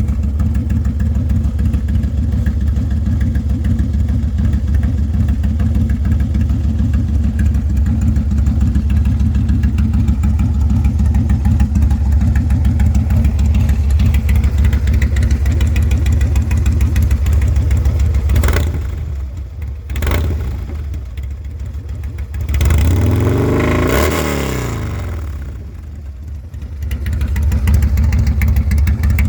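Harley-Davidson Low Rider S's 110 cubic inch V-twin running through a 2-into-1 exhaust, idling steadily. Past the halfway point the sound drops away briefly, then a single rise and fall in pitch follows before it settles back to idle.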